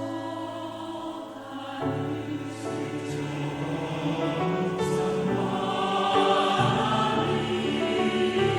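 A choir singing a Korean choral song with piano accompaniment. About two seconds in, the voices come in over the held piano chords and the sound grows fuller and louder.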